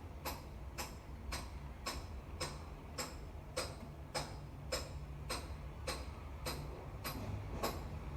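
Regular sharp metallic ticks or taps, about two a second, each with a brief ringing, over a steady low hum.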